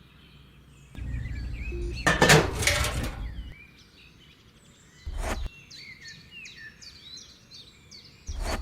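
Small birds chirping over and over. A louder rough noise runs from about one to three and a half seconds in, and two short thumps come later.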